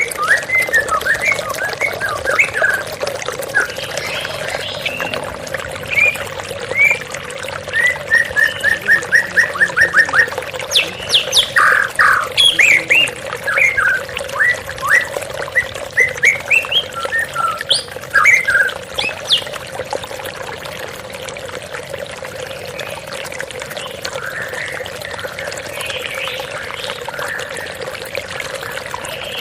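Songbirds calling and singing in varied short notes, including a quick run of repeated notes about a third of the way in, over the steady rush of flowing water. The birdsong thins out after about two-thirds of the way through, leaving mostly the water.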